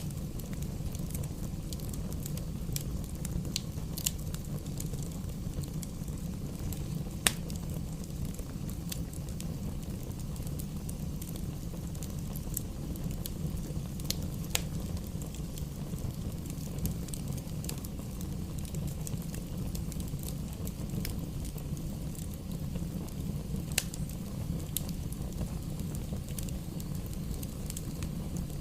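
Bonfire burning with a steady low rush, broken by scattered sharp crackles and pops, the loudest about seven seconds in.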